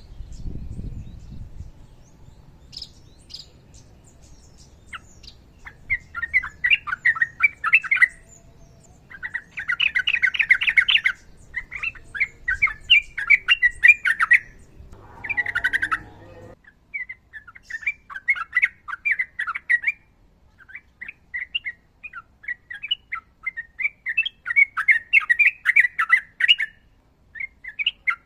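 Sooty-headed bulbul (trucukan) singing: bursts of rapid chattering notes, each a second or two long, repeated with short pauses, beginning a few seconds in.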